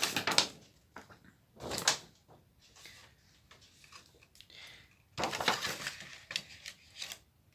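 Handling noise of parts being moved on a repair bench: a few short knocks, a clatter about a second and a half in, and a longer stretch of rustling and clattering from about five seconds in.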